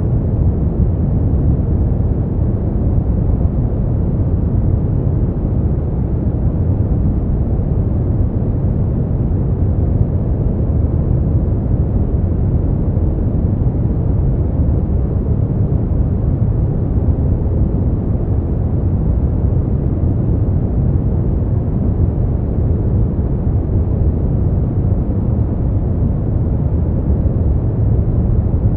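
Steady, deep brown noise: an even, low rumbling hiss with most of its weight in the bass and little above a few kilohertz. It is unchanging throughout.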